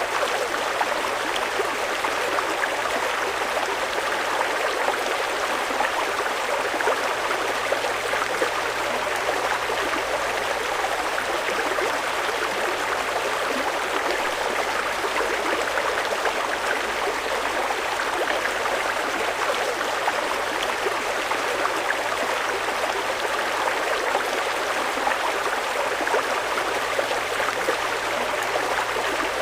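Swift-flowing mountain river rushing over rocks: a steady, even rush of water.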